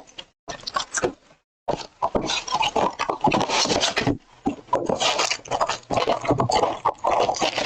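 A cardboard trading-card box being opened by hand and its wrapped card packs taken out: close-up rustling, scraping and clicking of cardboard and pack wrappers, with a brief pause about a second and a half in.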